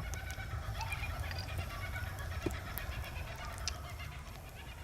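Campfire crackling, with scattered sharp pops over a steady low rumble. Faint steady calls of night creatures can be heard behind it.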